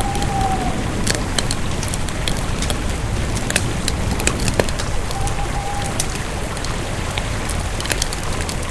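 Campfire burning, with a steady low rush of flames and frequent irregular crackles and pops from the wood. A faint thin whistle comes in briefly about five seconds in.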